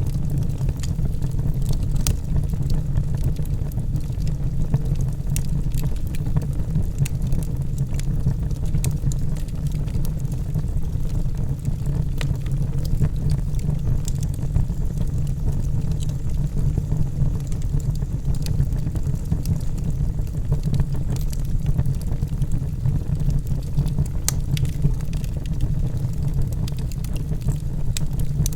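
Logs burning in a fireplace: a steady low rumble of the flames with scattered sharp crackles and pops throughout.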